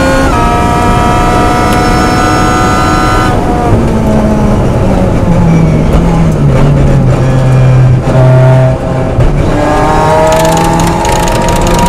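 Lotus Exige Cup's engine heard from inside the cabin: running at high revs, then off the throttle under braking with the engine note stepping down through downshifts, a brief crackle as it slows, and the note rising again as it accelerates out of the corner near the end.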